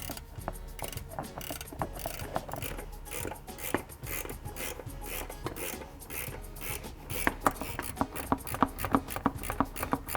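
Ratchet wrench clicking as the top mounting bolts of a front shock assembly are tightened, the clicks coming quicker and louder in the second half.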